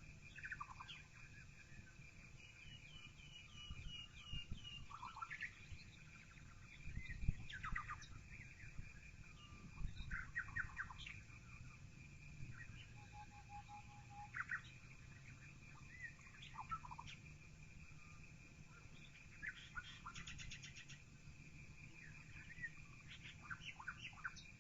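Songbirds chirping and calling outside, heard faintly through a partly open window, with short chirps and brief trills scattered throughout. A faint steady high tone and a low hum run underneath.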